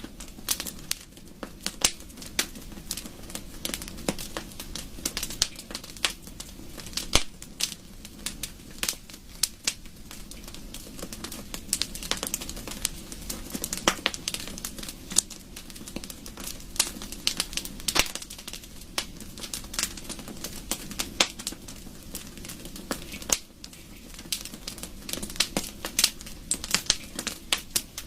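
Wood fire crackling: irregular sharp pops and snaps of burning wood, several a second, over a steady low rumble of the flames.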